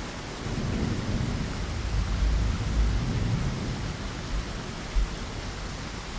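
Steady rain hiss with a rolling rumble of thunder that swells about half a second in and dies away after a few seconds, with a brief low thump near the end.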